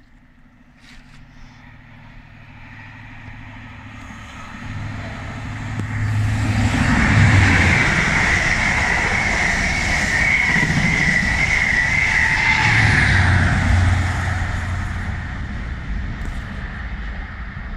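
LNER diesel High Speed Train running through a station: the rumble of wheels on rail builds, holds with a steady high whine for several seconds, then fades away. A low engine hum swells as the train arrives and again about thirteen seconds in.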